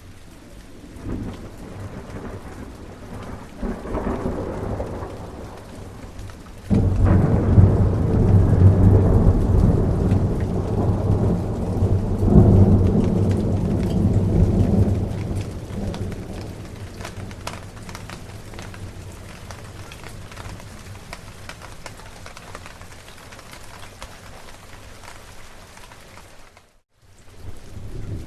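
Steady rain with thunder. Low rumbles in the first few seconds, then a loud thunderclap about seven seconds in that rolls on with a second swell and dies away by about sixteen seconds. Near the end the sound cuts out briefly before a new rumble begins.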